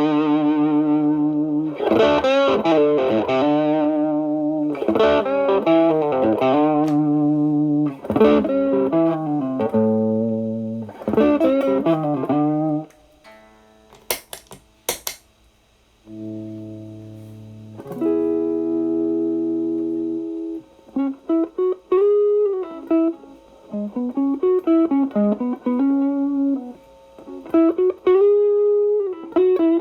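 Electric guitar (Stratocaster) played through an Xotic BB Plus preamp into a Marshall Valvestate amp, with the pedal's B channel gain set low at 2. Rhythmic chords give way about halfway to a short pause with a few clicks, then held chords, then single-note lead lines with bends.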